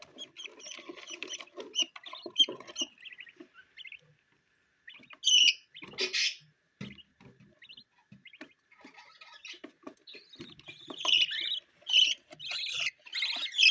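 Young budgerigar chicks chirping and chattering in short high calls, mixed with small scratchy clicks. There is one louder burst about six seconds in, and the chirping grows busier near the end.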